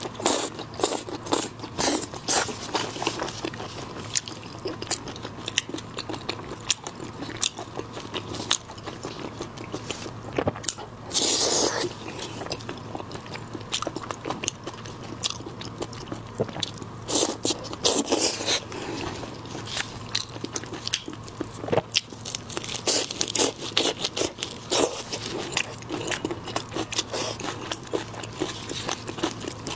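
Close-miked eating of seafood: steady chewing and crunching with many sharp clicks, and twice a louder, noisier stretch of about a second.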